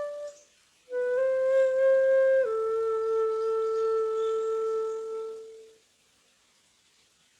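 Flute playing a slow melody in long held notes. A note ends just after the start, and after a brief pause a new phrase rises slightly, then steps down to a lower note held for about three seconds before fading out. The last second and a half is near silence.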